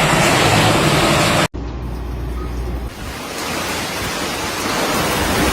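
Steady rushing noise of storm weather, with a hard cut about a second and a half in to a quieter rush that builds again toward the end.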